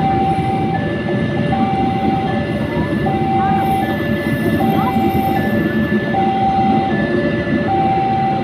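Railway level-crossing warning alarm sounding two alternating electronic tones, switching about every three-quarters of a second, over the steady rumble of a passing train.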